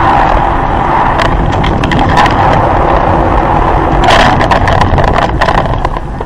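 Loud, steady driving noise of a car on the road, with several sharp knocks, most of them about four to five seconds in.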